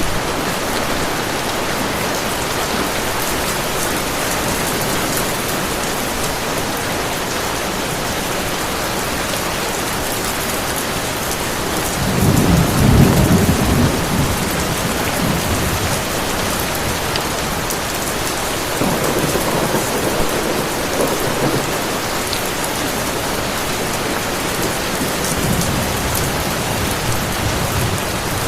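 Heavy rain falling steadily, with a roll of thunder a little under halfway through, the loudest moment, and fainter rumbles of thunder later on.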